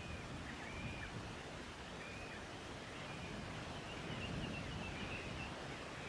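Faint, short, high-pitched bird chirps recur irregularly about a second apart, with a quick run of several about four seconds in. They sit over a steady low background rumble.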